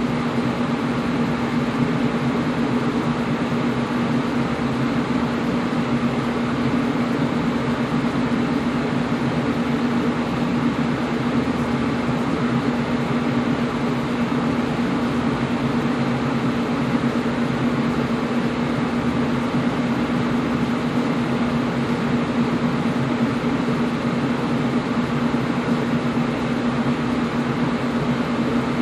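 Air conditioner running steadily: an even whooshing hiss over a constant low hum, with no changes.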